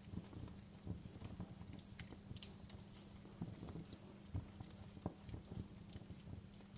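Wood fire crackling in a fireplace, with irregular small pops and snaps, several a second.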